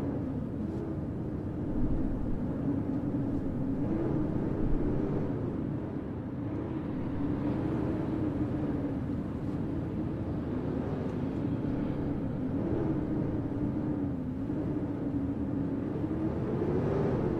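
Snowstorm city ambience: a steady rush of wind noise with a low hum that wavers slowly up and down in pitch.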